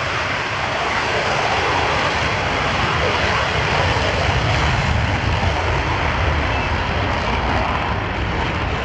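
Jet roar of a U.S. Navy F/A-18 Super Hornet in flight, loud and steady, with the deep rumble swelling about halfway through.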